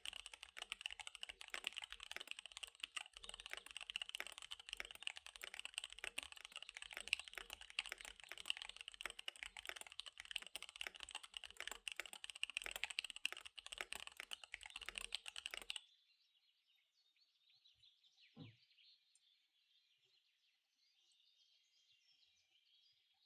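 Fast typing on a KBD75 V3 mechanical keyboard with SP-Star Dark Magic Girl tactile switches and DSA keycaps: a dense, rapid run of keystrokes that stops about two-thirds of the way through. After that only a faint bed of recorded birdsong remains, with one soft knock.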